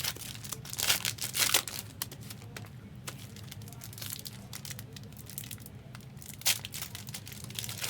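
Trading card pack wrappers being torn open and crinkled by hand. There are a few sharp rustles in the first second and a half, quieter handling after that, and another crinkle near the end.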